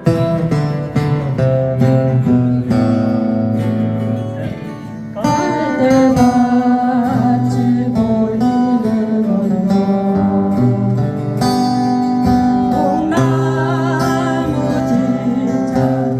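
Acoustic guitars strummed in steady chords, with singing coming in about five seconds in.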